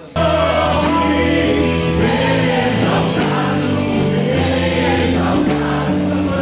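A Christian worship song sung by a choir with instrumental backing, cutting in abruptly at full volume.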